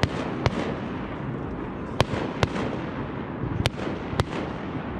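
Fireworks going off: about six sharp bangs at uneven intervals over a continuous rush of noise.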